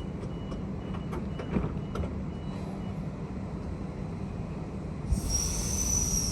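Suburban electric train heard from inside the carriage: a steady low rumble with a few light clicks. About five seconds in, a high-pitched squeal starts over a hiss, falling slightly in pitch.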